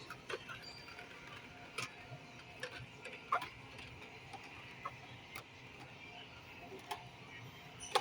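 Faint steady shop background with a scattered handful of short, sharp clicks and taps, irregularly spaced.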